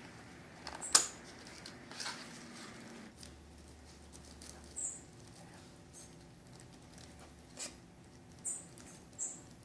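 Small clicks and rustles of handling, with a few brief, very high-pitched peeps from a baby Cuban grassquit held in the hand.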